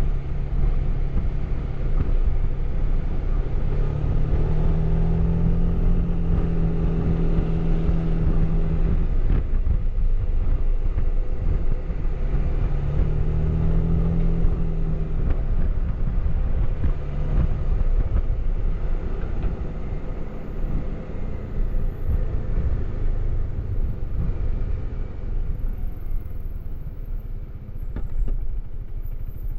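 Suzuki Burgman 400 maxi-scooter's single-cylinder engine through its stock exhaust while riding, revs climbing and holding twice as it accelerates, then running steadier and a little quieter.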